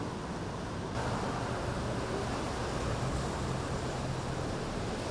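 Steady rushing noise of ocean surf and wind, growing a little louder about a second in, with a low steady hum under it until near the end.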